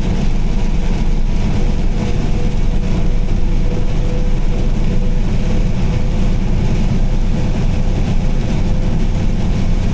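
Car driving on a rain-wet highway: a steady deep rumble of engine and tyres, with an even hiss above it and a faint steady hum.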